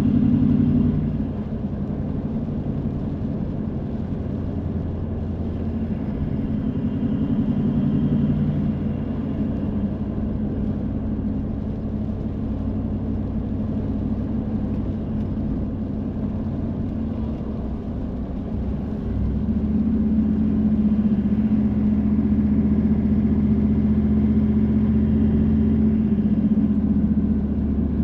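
A car being driven: steady engine hum under road noise. About two-thirds of the way through, the engine note steps up and grows louder, then holds.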